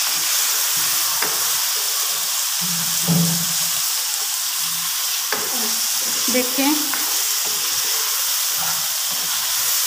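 Potato chunks frying in masala in a nonstick pan: a steady sizzle, with a wooden spoon stirring through them and knocking against the pan a few times.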